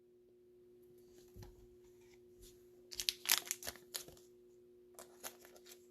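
Baseball cards and plastic card sleeves being handled, with scattered soft rustles and clicks, busiest about three to four seconds in, over a faint steady hum.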